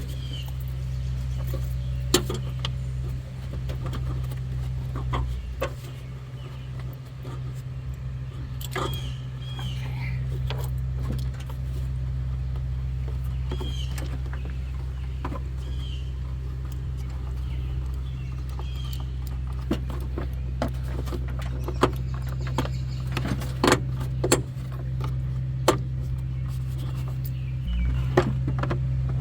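Scattered metallic clicks, clinks and knocks of parts and fasteners being handled while the air filter box is refitted over a truck engine, over a steady low hum.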